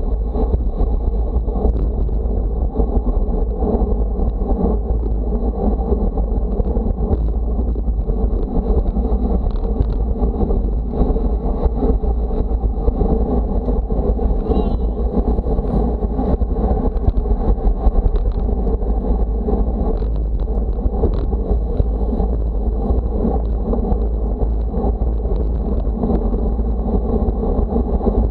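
Steady wind noise buffeting the microphone, a continuous low rumble with no breaks.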